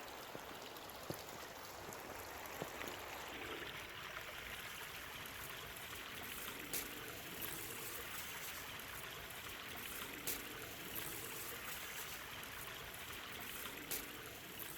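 Water flowing steadily, like a small stream, with a few sharp clicks.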